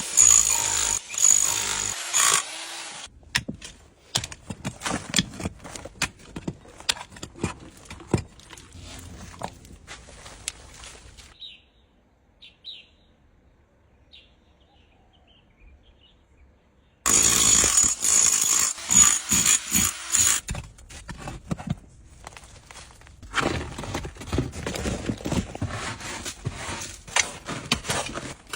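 A loud power tool with a high whine runs in two bursts, one lasting about two seconds at the start and one about three seconds long in the middle, with irregular scraping and knocking between them and a stretch of near quiet holding a few faint chirps.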